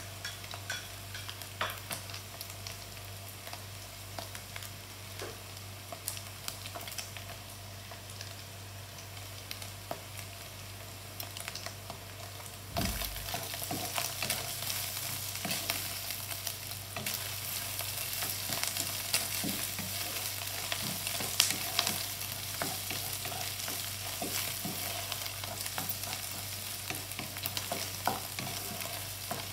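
Sliced sausages, ham and onions sizzling in a nonstick pan, with a wooden spatula stirring and scraping through them in small clicks. The sizzle turns louder about 13 seconds in.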